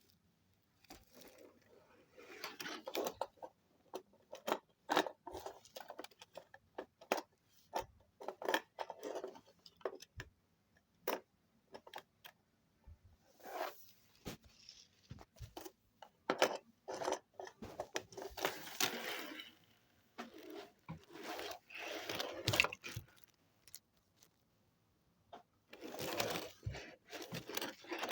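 Handling noise: irregular clicks, taps and short scraping rustles, coming in clusters with quiet gaps between them.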